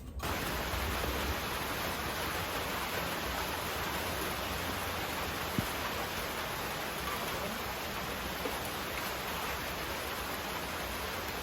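Steady hiss of heavy rain, beginning abruptly, with one faint click about five and a half seconds in.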